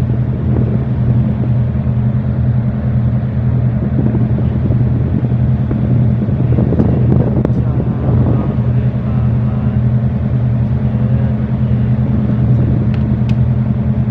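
Tugboat's diesel engine running steadily under way, a constant low drone with a fixed pitch.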